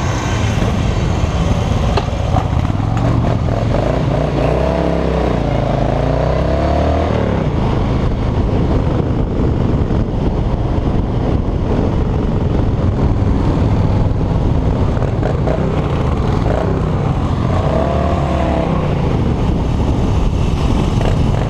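Harley-Davidson V-twin motorcycle engine running while riding, with steady wind rush; the engine note rises and falls twice, about four to seven seconds in and again near eighteen seconds.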